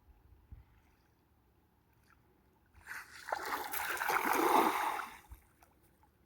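Water splashing: a burst of splashing about three seconds in that lasts a couple of seconds, then dies away.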